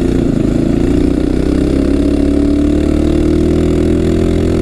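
Tillotson 212 single-cylinder four-stroke engine on a Coleman CT200U-EX minibike running under steady throttle while riding. Its pitch rises slightly over the first couple of seconds, then eases back.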